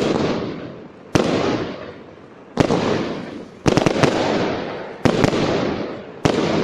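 Fireworks exploding: six loud bangs about a second apart, each trailing off in a long rumbling echo, with a quick run of several cracks near the middle.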